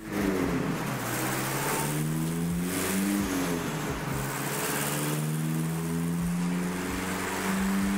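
Turbocharged car engine under load on a chassis dynamometer during a power run, its pitch climbing steadily, dropping about four seconds in and then climbing again.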